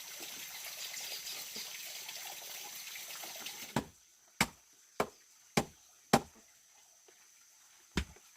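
Running water that stops suddenly just before the middle, then six sharp knocks, five in a quick even series and one more near the end.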